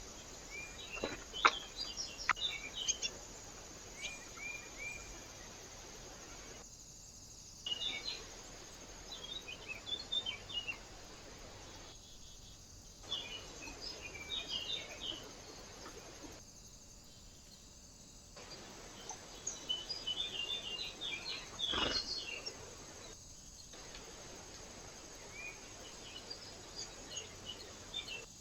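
Small birds at a feeder chirping and twittering in short, scattered high calls over a steady background hiss, with a few sharp clicks and several brief dropouts to silence.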